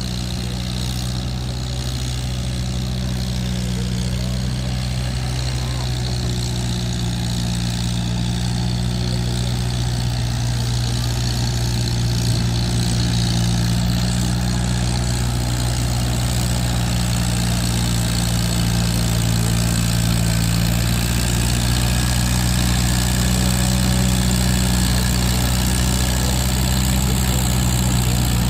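1949 Farmall H tractor's four-cylinder engine running steadily at a tractor pull, pulling the weight sled in the 4,500-pound class. It is a constant low engine drone that grows slowly louder.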